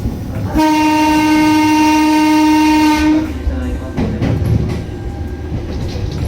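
Train horn sounding once in a single steady tone for about two and a half seconds, over the continuous rumble of the train running on the rails.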